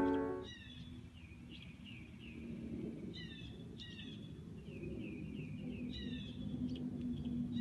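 Music cuts off about half a second in, then an outdoor ambience: birds chirping in short falling notes, some in quick runs, over a faint low rumble.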